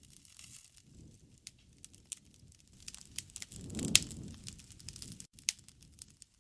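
Wood fire crackling, with scattered sharp pops over a low rush of flame. About four seconds in, the flame's rush swells briefly and the loudest pop cracks out.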